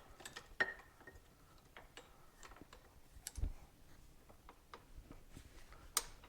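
Irregular light clicks and taps of hand tools working on a motorcycle fork part while trying to get a seal out, with a duller knock about three and a half seconds in and a sharp click near the end.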